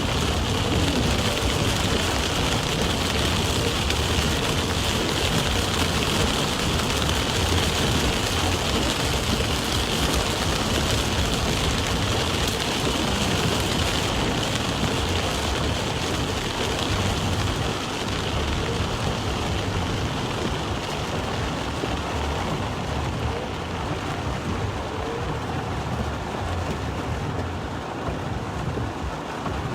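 Heavy rain drumming on a car's roof and windshield, mixed with tyre noise on the wet road, heard from inside the car. It is a steady downpour that eases slightly over the second half.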